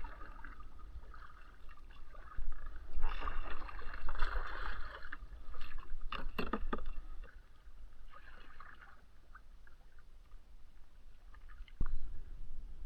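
Water splashing and gurgling around a fishing kayak, with a few sharp knocks on the hull about halfway through and again near the end.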